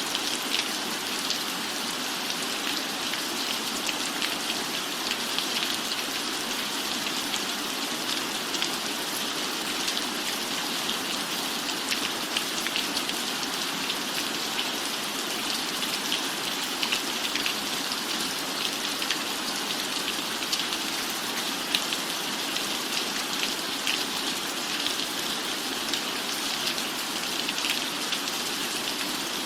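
Steady rain, an even hiss with the tap of many separate drops.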